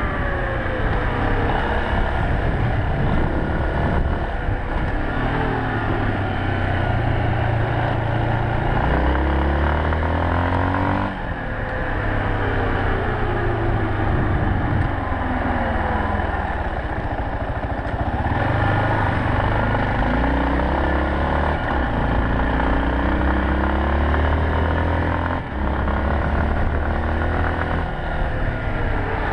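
Yamaha Serow 250's single-cylinder four-stroke engine running under way, its pitch rising and falling again and again with throttle and gear changes.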